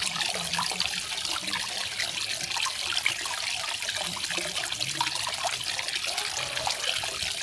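Garden waterfall splashing and trickling steadily, a dense continuous patter of falling water.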